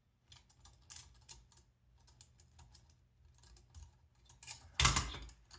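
Small plastic and metal parts being handled: scattered light clicks and taps as link-rod ends and screws are fitted, with one louder clatter about five seconds in.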